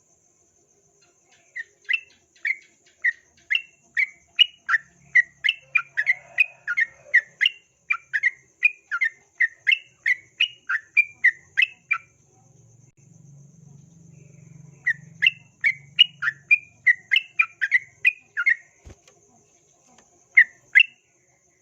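Yellow-vented bulbul (trucukan) singing a rapid chattering song of short, bright chirps, about two or three a second. It sings one long run, pauses for a few seconds, sings a second shorter run, then gives two last notes near the end.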